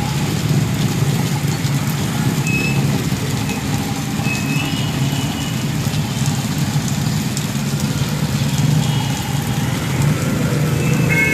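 Vehicle engine running steadily with a low hum, under an even hiss, with a few brief high-pitched tones.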